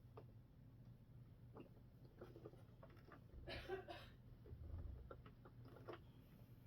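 Faint clicks and rustling of small kit parts being handled and fitted by hand, with a short, louder scrape or rustle about three and a half seconds in.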